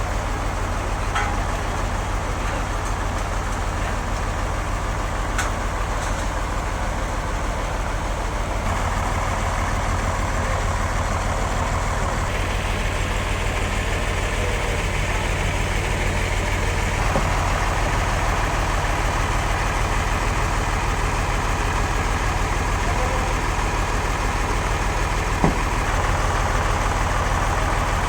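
Sawmill machinery running steadily while sawing a large log: a continuous engine-like drone with a strong low hum. The higher cutting noise shifts in pitch and strength a few times, and a sharp tick comes near the end.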